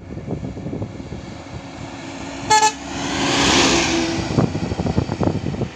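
Road traffic with a short horn toot about two and a half seconds in. Right after it, a vehicle rushes past with a swell of tyre and wind noise that rises and falls.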